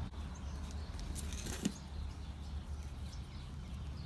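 Hands pressing garlic cloves into garden soil: faint rustling, with a short sharp tap about one and a half seconds in, over a low steady rumble.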